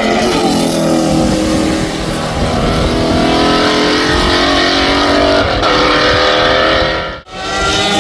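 Racing car engine running hard, its pitch rising and falling as it revs. The sound drops out abruptly for a moment near the end, then an engine picks up again at a lower pitch.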